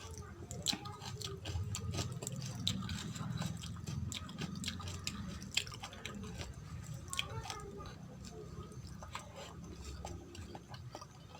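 Close-miked chewing of vegetable curry and rice, with many sharp wet clicks and small crunches of the mouth and food.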